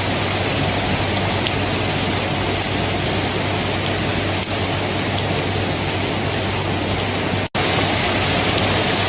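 Steady rain falling on a surface, an even hiss with scattered drop ticks. About three quarters of the way through, the sound cuts out for an instant and comes straight back.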